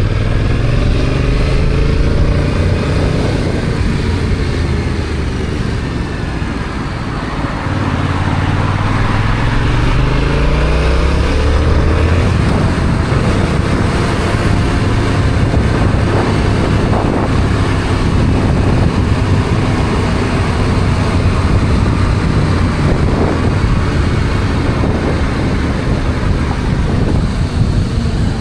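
Yamaha XSR700's stock 689 cc parallel-twin engine under way, its pitch climbing in several rising pulls through the gears during the first dozen seconds. It then runs more steadily, mixed with wind and road noise.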